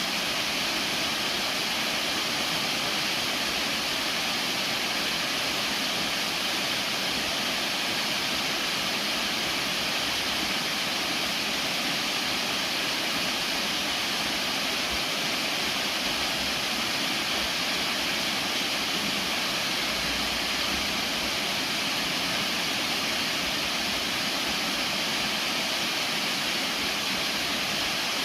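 Soco Falls, a 120-foot double waterfall, pouring and splashing in a steady, even rush of falling water.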